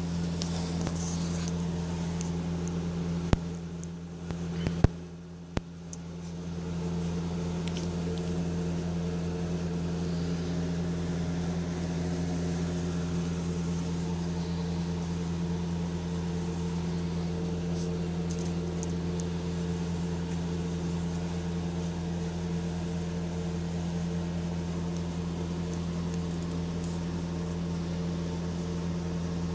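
Steady low mechanical hum, like a motor or fan running. It drops away for a moment about five seconds in and builds back, with a few sharp clicks around then.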